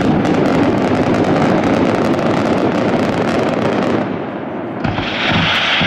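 Fireworks display: a dense crackling of many small bursts for about four seconds. It eases briefly, then near the end a steady hiss of firework fountains spraying sparks takes over.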